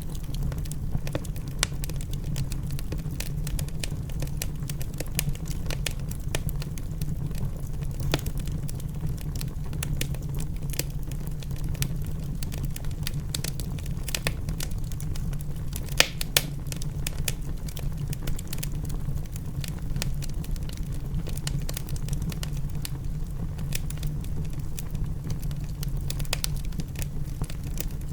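Wood fire in a fireplace crackling, with many small irregular snaps and one louder pop about halfway through, over a steady low rumble.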